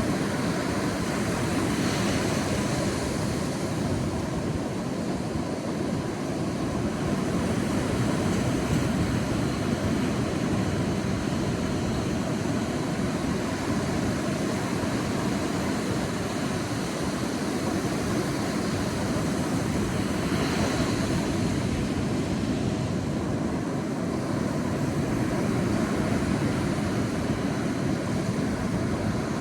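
Sea waves washing onto a beach: a steady wash of surf, with a brighter hiss of a breaking wave about two seconds in and again about twenty seconds in.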